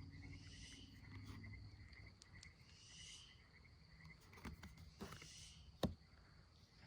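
Near silence: faint room hiss with a few soft taps and clicks of tarot cards being handled, and one sharper click about six seconds in.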